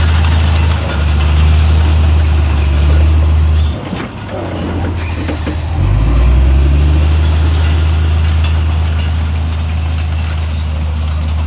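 Heavy diesel engine of earthmoving machinery running under load with a deep, steady drone. It eases off for about two seconds a few seconds in, then picks up again.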